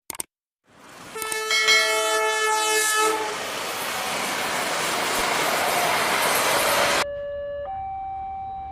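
A train horn sounds a chord for about two seconds over the rising rumble and clatter of a passing train, which cuts off abruptly about seven seconds in. A two-tone siren then takes over, alternating between a low and a high note.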